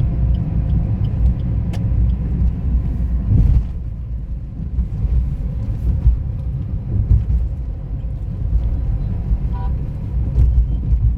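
Motorcycle ride in road traffic: a steady low rumble of engine and road noise throughout.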